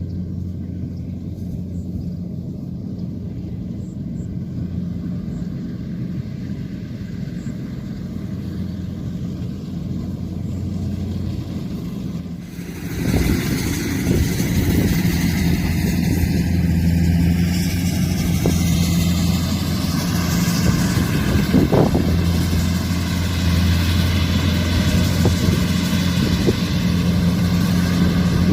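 Kubota combine harvester's diesel engine running with a steady low hum. About twelve seconds in, the sound grows louder and fuller, with a wide rushing noise laid over the engine.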